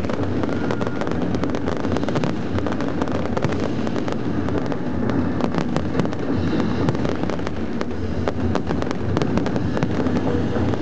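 Big aerial fireworks display: a dense, continuous stream of crackles and pops from many shells and crackling stars bursting together.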